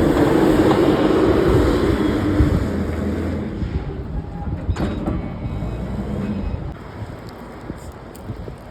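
A heavy vehicle or machine running close by, loud for the first three seconds and then fading away, with a single sharp knock about five seconds in.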